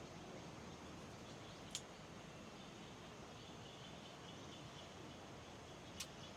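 Quiet, steady background hiss of the surroundings, with a short light click about two seconds in and another near the end.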